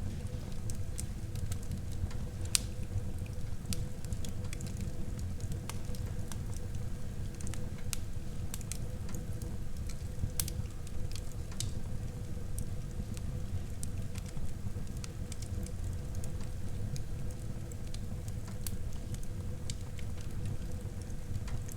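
Wood fire burning in a fireplace: a steady low rumble of flames with irregular crackles and sharp pops of burning wood, two pops louder than the rest about two and a half and ten seconds in.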